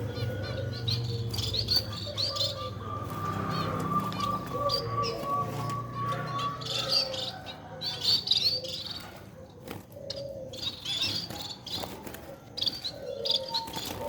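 Bengalese finches (society finches) giving short, repeated high chirps, mixed with scattered sharp clicks and wing flutters.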